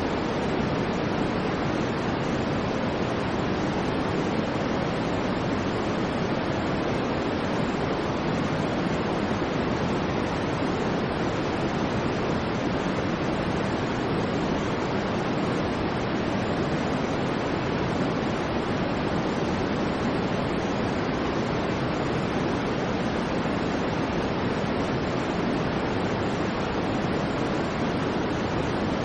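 Generated white noise: an even, unchanging hiss with no variation or events.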